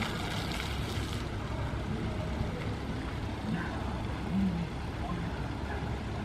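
Low, steady rumble of a tour boat's motor running on the canal, with a brief hiss in the first second.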